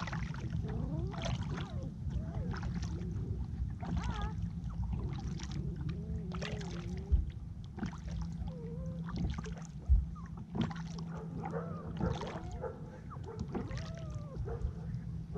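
Kayak paddle strokes in the water, about one every second and a half, with a couple of sharp knocks of the paddle on the hull, while a dog whines on board.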